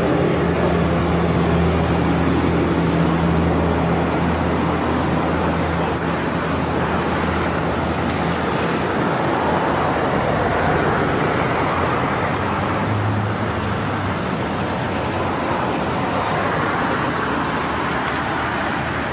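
Road traffic noise from passing vehicles, with a vehicle engine humming steadily nearby for the first several seconds before fading.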